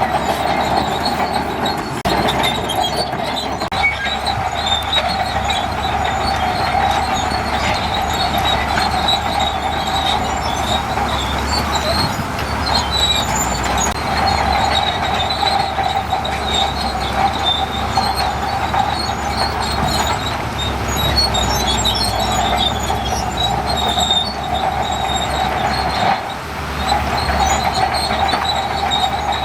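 Crawler bulldozer working, its diesel engine running under a steady high metallic squeal and clatter from the tracks, dipping briefly near the end.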